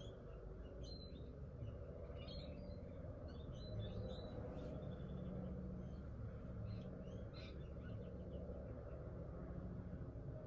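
Small birds chirping now and then outdoors, short high calls scattered through, over a low steady hum.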